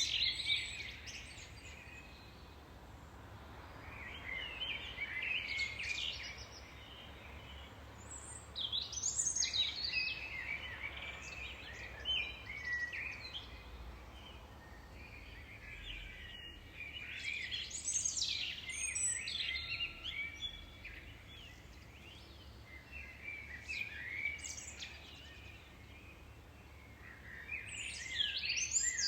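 Songbirds singing: bursts of high chirps and trills come every few seconds, some sweeping sharply up and down, over a faint steady low rumble.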